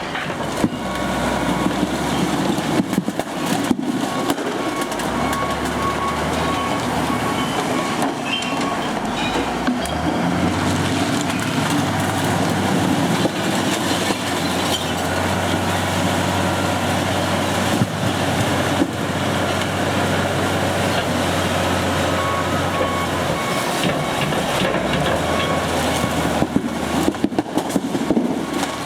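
Recycle truck running with steady rattling and clattering of material, and a low engine hum that grows stronger partway through.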